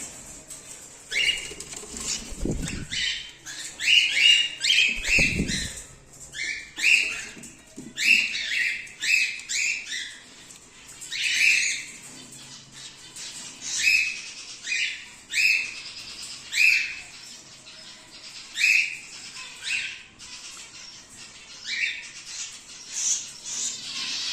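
Cockatiels calling over and over in short, shrill, repeated calls, one or two a second, with two bouts of wing flapping in the first six seconds.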